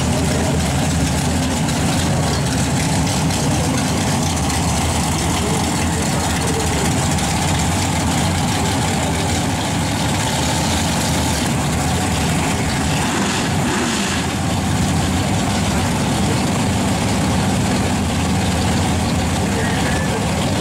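Twin-turbo Chevy pickup's engine idling steadily, a low, even note with no revving.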